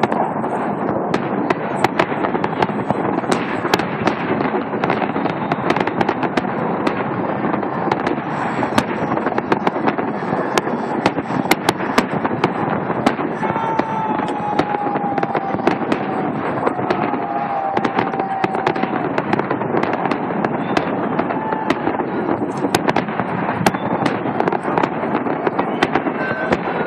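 Fireworks salute: continuous dense crackling and popping from many bursting shells, with a steady rushing noise underneath and frequent sharp bangs.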